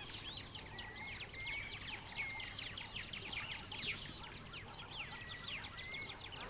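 Several birds calling together: many quick downward-sweeping chirps and short whistles, with a fast run of repeated notes about two and a half seconds in and another near the end.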